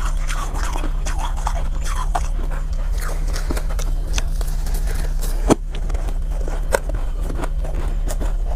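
Soft, powdery ice being bitten and chewed up close: a quick, dense run of crisp crunches and scrapes, with two louder crunches about five and a half and seven seconds in, over a steady low hum.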